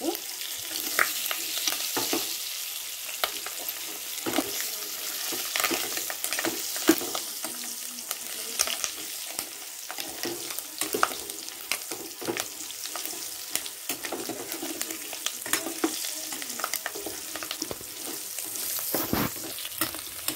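Pieces of fish roe sizzling as they fry in oil in a kadai, with a steel spatula scraping and clicking against the pan as they are stirred and turned. Steady sizzle throughout, with frequent sharp clicks.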